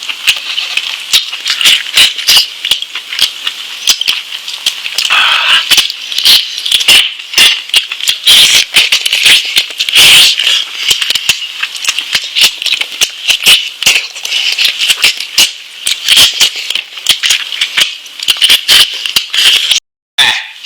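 Close-miked chewing and lip-smacking while eating lamb meat: a dense run of rapid, irregular wet clicks. The sound cuts out briefly near the end.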